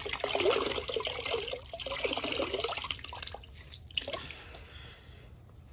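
Water splashing and trickling while a motorcycle is hand-washed, busy for about three seconds and then dying down to a faint trickle, with a single sharp click about four seconds in.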